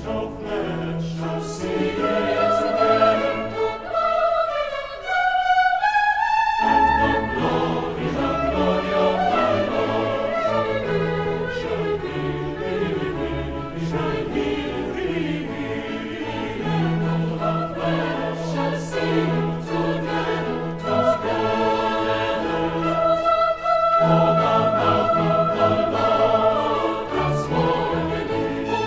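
Choir singing a classical choral piece with a symphony orchestra accompanying, sustained chords moving through changing harmonies.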